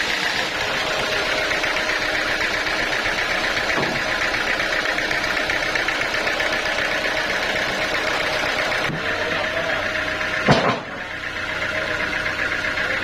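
Sawmill machinery running steadily with a fast, even mechanical rhythm, and one sharp knock about ten and a half seconds in.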